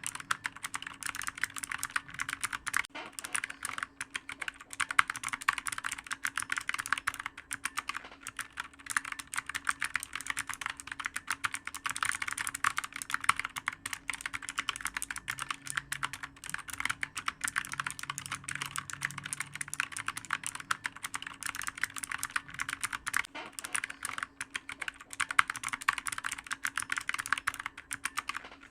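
Clicky computer keyboard being typed on quickly and continuously, a dense stream of sharp keystroke clicks with no real pauses.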